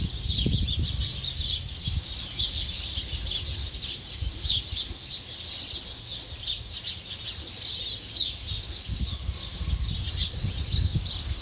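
Many small birds chirping and twittering continuously, short calls overlapping in a steady chorus, with a low rumble underneath that swells now and then.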